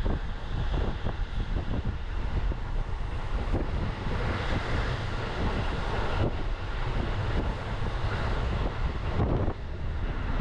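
Electric commuter train running at speed, heard from inside the car: a steady low rumble of wheels on rail with scattered clacks, and the hiss swelling for a couple of seconds around the middle.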